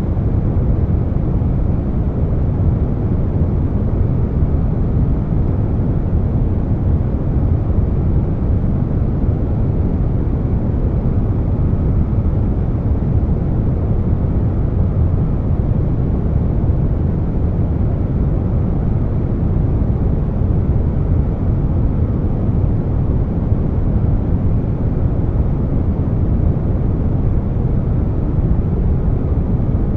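Air conditioner noise blended with brown noise: a continuous, deep rushing noise weighted toward the low end, even throughout with no changes.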